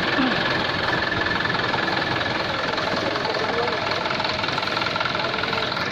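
An engine running steadily, with faint voices of people nearby.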